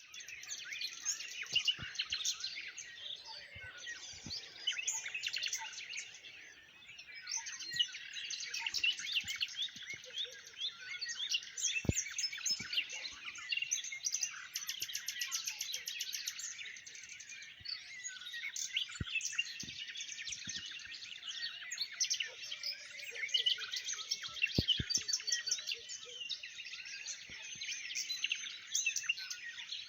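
Dawn chorus of many small birds chirping and singing at once, a dense overlapping mix of calls, with a fast trill about halfway through.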